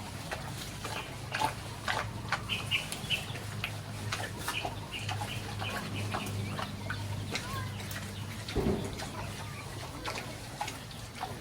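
Farm animals calling in short high calls over a steady low hum, with scattered knocks and clatter and one louder knock late on.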